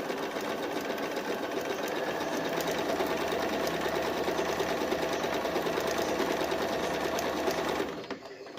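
Bernina 1030 sewing machine running steadily at speed as it sews a stitch pattern, then stopping near the end.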